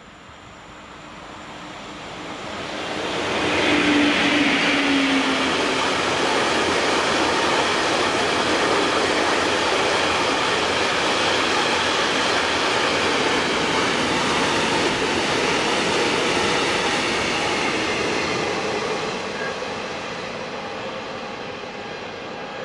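A train approaching and passing close by: wheel-on-rail noise building over about four seconds, a short falling tone as the front goes by, then a long steady run of the cars passing that eases off near the end.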